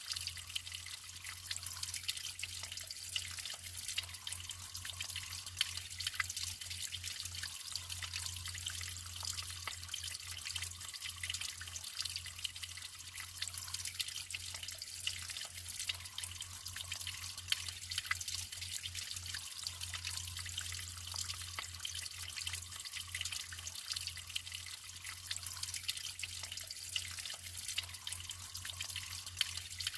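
Natural water flowing steadily, trickling and splashing with many small drips.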